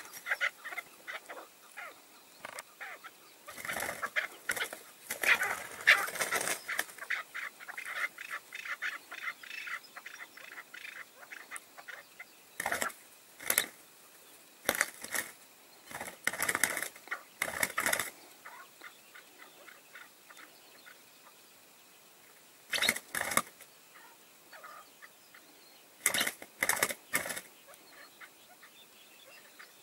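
Chukar partridge calling: runs of rapid, clipped clucking notes. There is a long run a few seconds in, then shorter bursts at intervals with quiet gaps between them.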